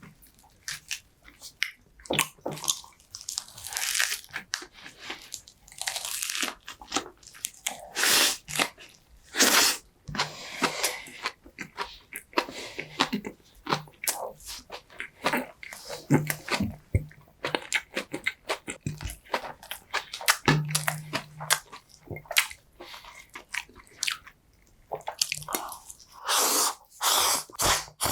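Close-miked chewing and crunching of food, irregular bites with wet, squishy mouth sounds and a brief low hum about two-thirds of the way through.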